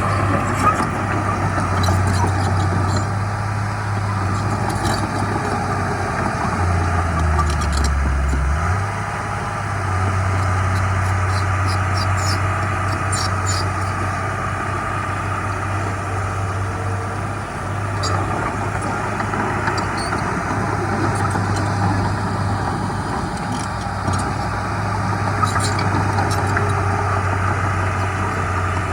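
Heavy diesel engine of earthmoving machinery running steadily, its note sinking lower for a couple of seconds about seven seconds in, with scattered sharp metallic clicks.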